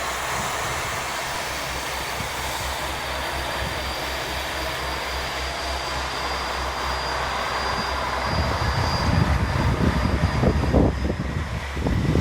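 Train running, a steady rumble with a faint high whine; about eight seconds in, a heavier, uneven low rumble sets in and grows louder.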